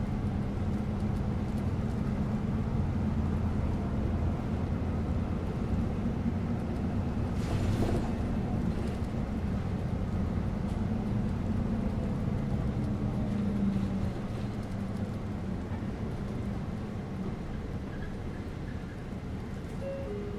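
Inside a local bus on the move: a steady low engine hum with road noise, and a brief rattle about eight seconds in. The sound eases off a little past the middle.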